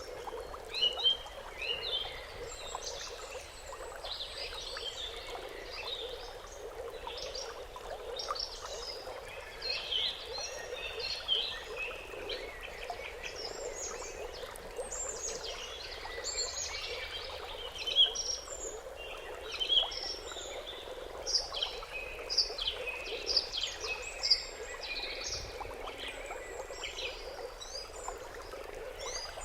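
A chorus of many small birds chirping and calling, short high notes overlapping one after another without a break, over a steady low background drone.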